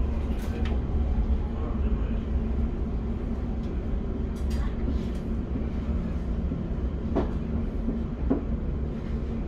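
Class 710 Aventra electric multiple unit running between stations, heard from inside the carriage: a steady low rumble with a faint steady hum, broken by a few short clicks and knocks.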